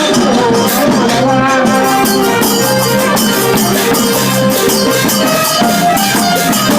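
Thai trae wong brass band playing: wind instruments hold and change notes over a steady drum-and-percussion beat.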